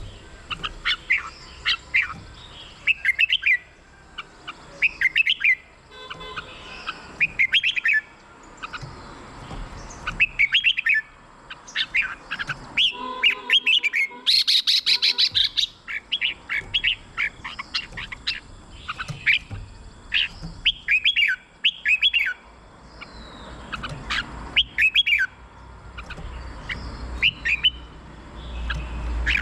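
Red-whiskered bulbul singing: short, bubbling phrases of quick whistled notes, repeated every second or two.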